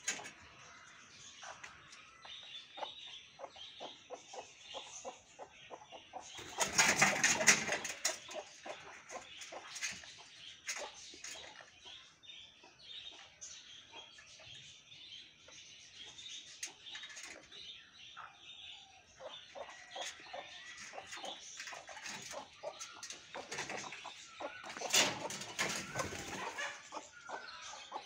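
Birds calling outdoors: many short clucking calls keep coming through, with two louder, rougher bursts about seven seconds in and near the end.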